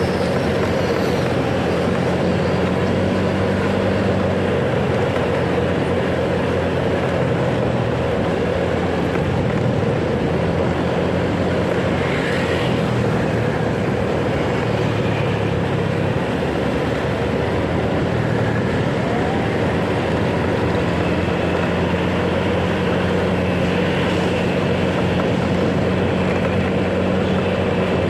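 Motorcycle engine running steadily while riding in traffic, its note shifting a little around the middle, over continuous wind and road noise.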